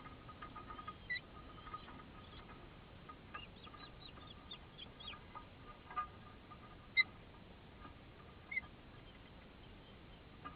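Birds calling: a quick run of short high chirps about a third of the way in, and a few single sharp calls, the loudest about two-thirds in.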